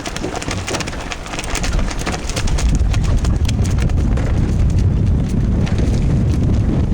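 Wind buffeting the microphone with a low rumble that builds from about two seconds in, over a rapid patter of small clicks and taps that thins out in the second half.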